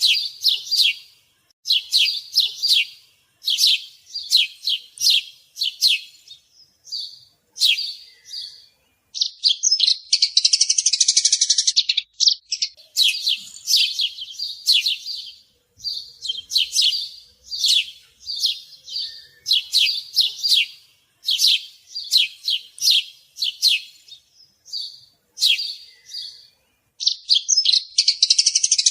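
Sparrow chirping in runs of short, repeated chirps, broken twice by a rapid chattering trill: once about ten seconds in and again near the end.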